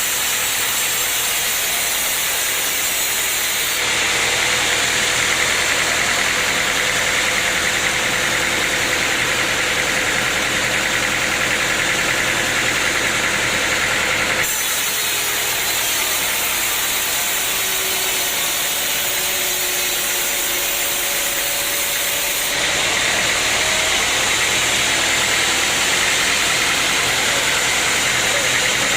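Sawmill machinery running steadily, a loud engine-like noise with a strong hiss. Its tone changes abruptly about 4, 14 and 22 seconds in.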